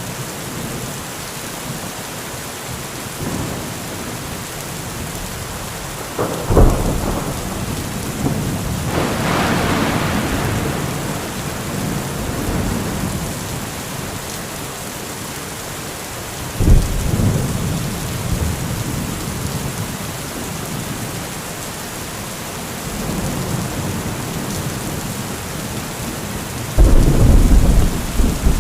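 Heavy rain falling steadily through a thunderstorm, with thunder over it: a sharp clap about six and a half seconds in, followed by a long rolling rumble, another sudden clap around seventeen seconds, and the loudest crash near the end.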